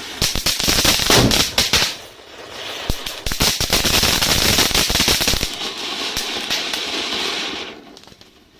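Diwali firecrackers going off in rapid, dense volleys of cracks over a hissing spray of burning powder. The cracking stops about halfway through, and the hiss carries on alone and fades out near the end.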